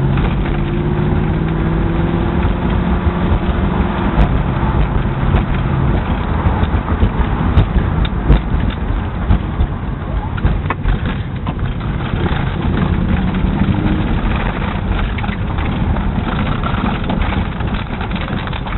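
Triumph Stag's 3.0-litre V8 running warm, a faint knock still audible in it. The steady engine note of the first few seconds turns rougher, with scattered sharp ticks, about six seconds in.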